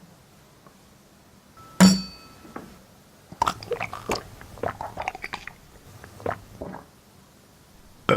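Floral foam being bitten and crunched. A sharp clink with a short ring comes about two seconds in, then a run of crisp crunches lasts about three seconds.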